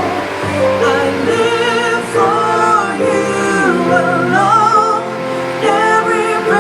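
Worship song: singing voices holding long, wavering notes over a steady instrumental backing.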